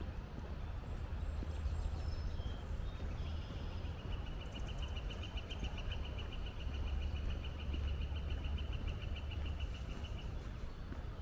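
Outdoor ambience with a steady low rumble, a few short high chirps in the first seconds, then a long, fast, even trill that starts about three seconds in and stops shortly before the end.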